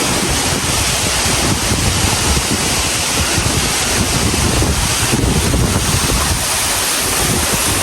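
Waterfall close up: a loud, steady rush of falling water, with wind and spray buffeting the microphone.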